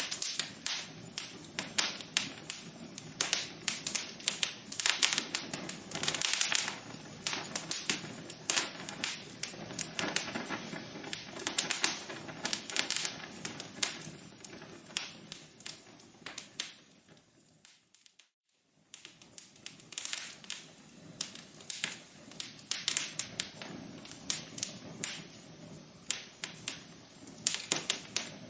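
Wood fire in a fireplace crackling, with dense, irregular pops and snaps over a soft hiss. Just past the middle the sound fades to near silence for about a second, then the crackling comes back.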